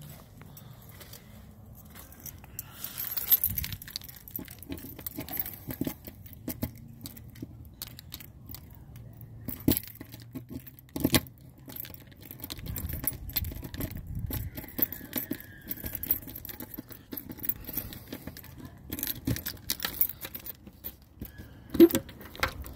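Scattered clicks, knocks and light metallic jangling from a truck camper's exterior compartment hatches and latches being handled, with a few louder knocks about halfway through and near the end.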